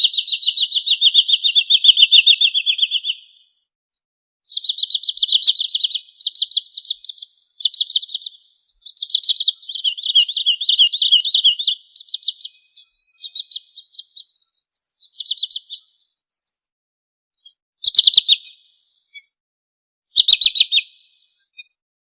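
Wood sandpiper calling in rapid high trills of many quick notes, in runs of one to three seconds separated by short pauses, with two brief loud bursts near the end.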